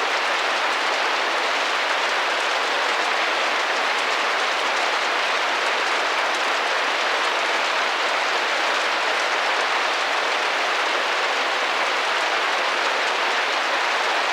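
Steady rain drumming on a window pane: a dense, even patter with no breaks.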